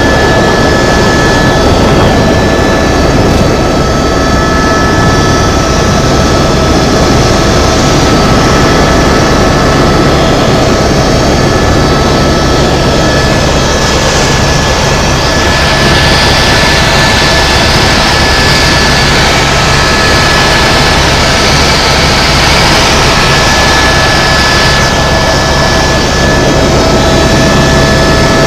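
Tour helicopter in flight: steady, loud turbine engine and rotor noise, a low rumble with a constant high-pitched whine over it.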